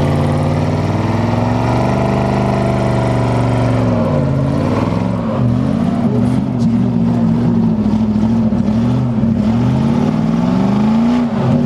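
Car engine held at steady high revs, dropping off about four seconds in, then revved up and down repeatedly in quick, uneven blips.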